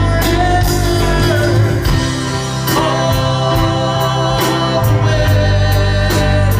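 Live rock band playing, with a singer holding long notes over a steady drum beat and bass.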